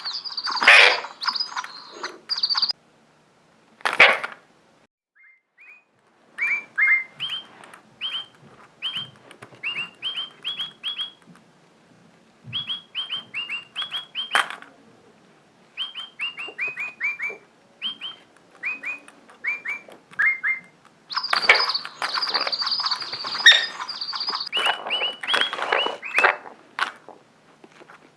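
Parrot calling: a long series of short chirps, each sliding down in pitch, about two a second. Harsher, denser chattering calls come at the start and again for a few seconds about three quarters of the way through, with a couple of sharp clicks.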